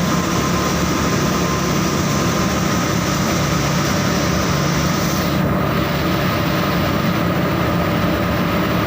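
Saurer JSC 330 textile carding machine running steadily: a loud, even mechanical hum and hiss with a few constant tones. The high hiss thins briefly a little past halfway.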